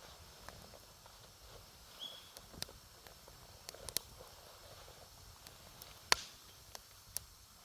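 Wood campfire crackling, with a handful of sharp, irregular pops; the loudest comes about six seconds in.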